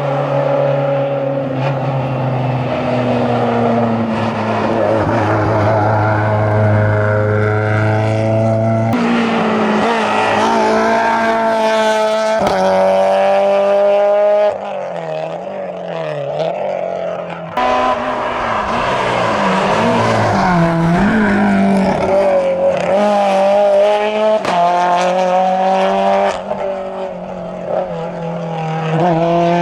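Racing car's engine driven hard. The revs climb and drop sharply at each gear change, several times over, and ease off twice for corners before pulling again.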